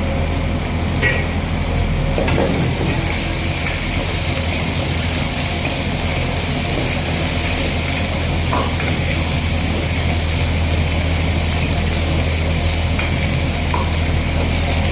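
Chicken sizzling in hot oil as it is stirred and tossed in a pan. A steady low hum runs underneath, and the sizzle grows louder about two seconds in.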